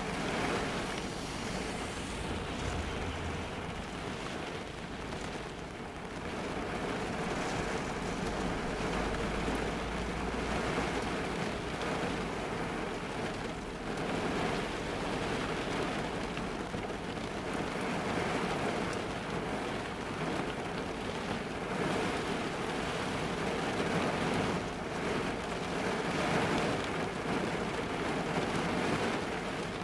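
Heavy rain drumming on the roof and windows of a car, heard from inside the cabin as a dense, steady patter that swells and eases slightly.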